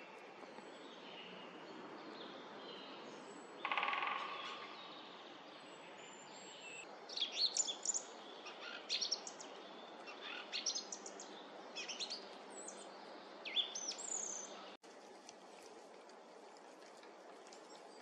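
Small forest birds calling: a series of sharp, high calls that drop quickly in pitch, with a short buzzy rattle a few seconds before them, over a steady background hiss.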